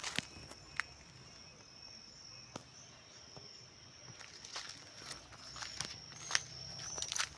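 An insect's steady high-pitched trill that fades out for a couple of seconds and comes back stronger, over scattered sharp taps and clicks.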